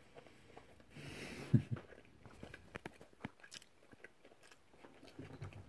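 A person chewing food close to the microphone, with scattered small crunches and clicks.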